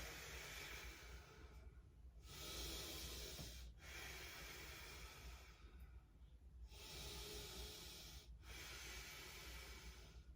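A woman's slow, deep breaths, faint, in long even swells of airflow: about three full in-and-out breaths.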